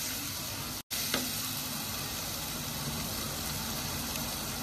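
Thick onion-tomato masala sizzling and frying in oil in a stainless steel pan as a wooden spatula stirs it. The sound cuts out for an instant a little under a second in, followed by one short tap.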